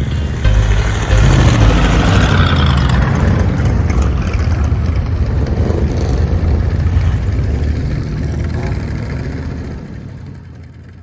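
Car engine running with a low-pitched sound, gradually fading out over the last few seconds.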